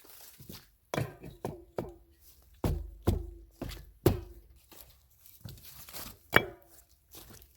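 Irregular series of hard knocks and thuds as stones and bricks are packed and knocked down into place. Several of the strikes ring briefly, and the loudest is a sharp knock a little past six seconds in.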